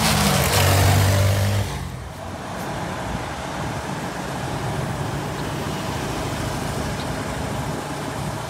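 Heavy truck engine labouring loudly under load, then dropping off sharply under two seconds in and carrying on as a quieter, steady running.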